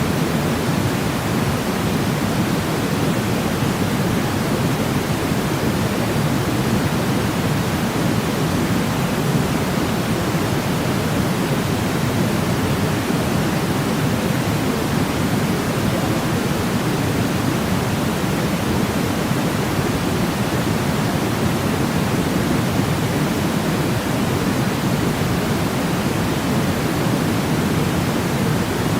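Steady sleep noise, a constant even hiss weighted toward the low end like pink noise, with no change or breaks.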